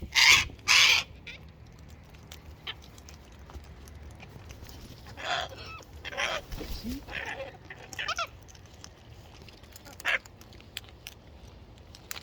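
Wild cockatoos squawking: two loud, harsh screeches in the first second, then scattered quieter squawks and chatter.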